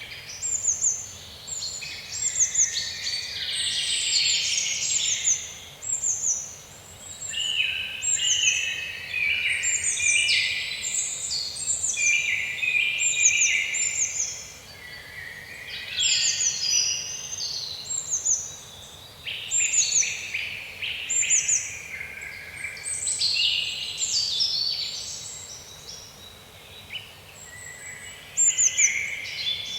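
Small birds chirping and twittering without a break, several at once, with short, high, downward-slurred notes repeating about once a second.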